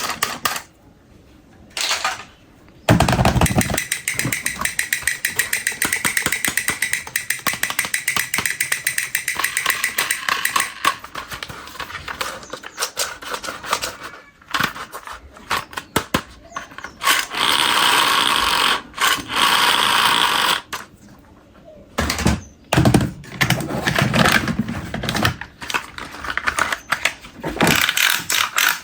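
Plastic toy vehicle parts clicking and rattling in rapid, irregular runs, with a low knock about three seconds in.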